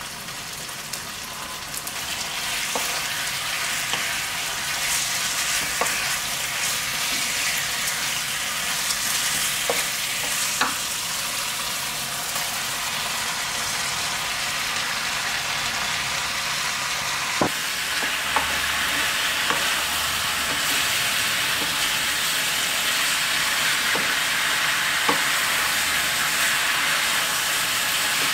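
Pork belly and baby octopus in a spicy seasoning sizzling in a frying pan as they are stir-fried. The hiss grows louder about two seconds in and holds steady, with scattered light knocks as the spoon and the added vegetables strike the pan.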